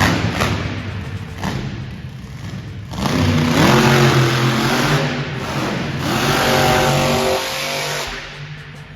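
Monster truck engine revving hard: a loud rev climbs about three seconds in, a second rising rev follows around six seconds, and the engine eases off near the end.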